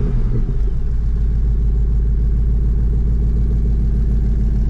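1967 Chevy C10 pickup's engine idling steadily, just after starting, with a low, even rumble through its side exhaust.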